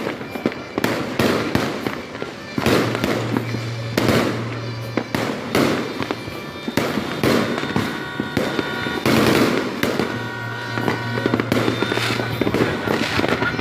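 Fireworks going off in a rapid, irregular series of bangs and crackles, with music playing underneath.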